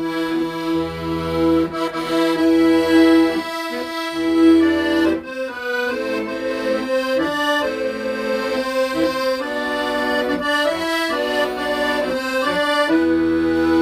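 Accordion playing a slow melody in long held notes over sustained bass chords.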